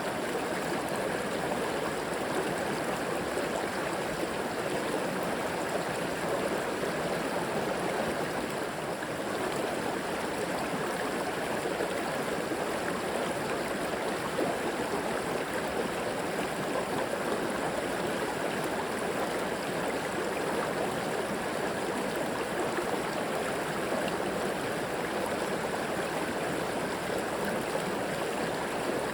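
River water flowing and babbling over rocks in a steady, even rush.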